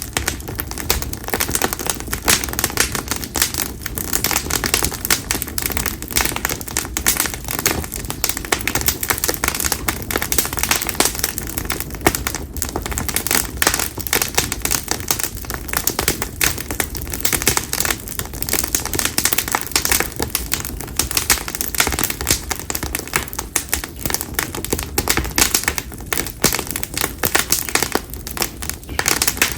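Split konara oak firewood burning in a bonfire, crackling and popping densely and without pause.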